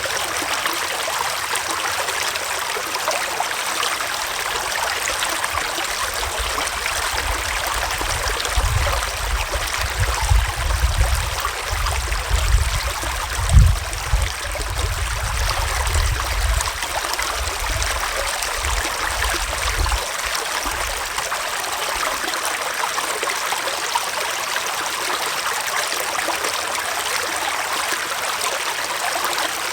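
Gentle forest stream flowing with a steady rush and trickle of water. A low rumble comes and goes for about fifteen seconds in the middle.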